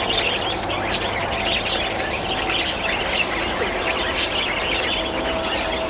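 A flock of small birds chirping and calling at once, a dense, continuous chatter of short overlapping chirps.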